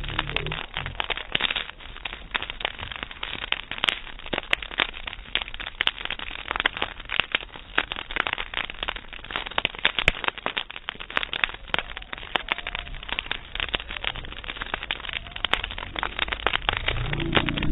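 Campfire crackling and popping: many irregular sharp snaps from burning wood, some louder than others.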